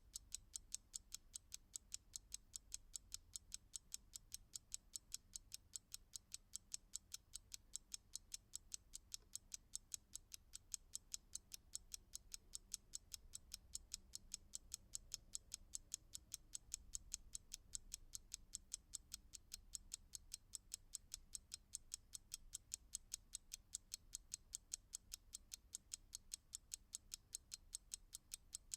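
Clock ticking quietly and evenly, about three sharp ticks a second.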